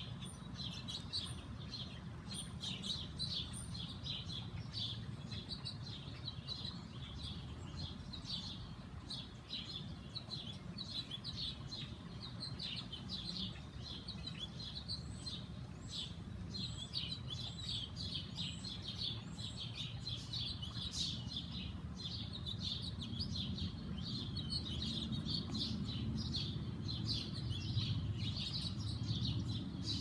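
Songbirds chirping continuously, many short high chirps overlapping, over a steady low background rumble.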